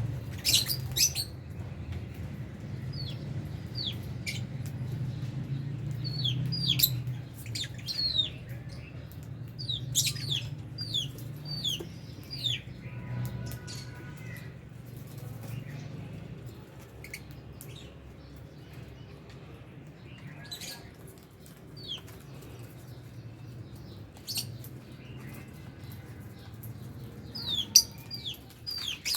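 Flock of lovebirds in an aviary chirping: many short, sharp, high chirps in scattered bursts, busiest in the first half and again near the end, over a low steady background rumble.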